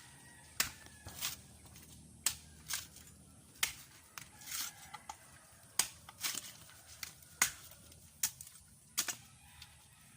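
Irregular sharp knocks and snaps, about one or two a second, over a faint steady low background.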